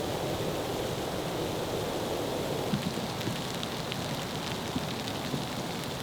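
Steady snowstorm ambience: a continuous rushing of wind and falling snow, with a few faint light ticks from about halfway through.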